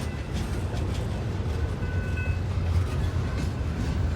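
Intermodal freight train rolling slowly past, a steady low rumble of its cars on the rails, with a faint brief high squeal about halfway through.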